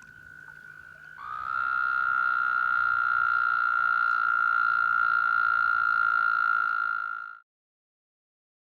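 American toad trilling: one long, steady, high musical trill held at a single pitch for about six seconds before it stops. A fainter trill at the same pitch runs during the first second.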